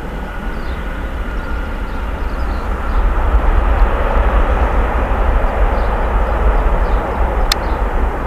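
Airbus A320 jet engines on approach, a steady rushing noise with a deep rumble that grows louder about three seconds in as the aircraft closes in. A single sharp click near the end.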